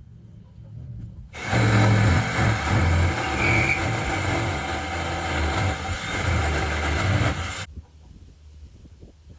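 Power saw cutting through the thick plywood floor of a truck's grain box: a loud, steady cutting noise that starts about a second and a half in and stops abruptly about six seconds later.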